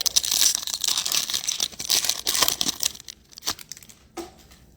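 Plastic trading-card pack wrapper crinkling and tearing open as it is handled, dense for about three seconds, then a few light clicks.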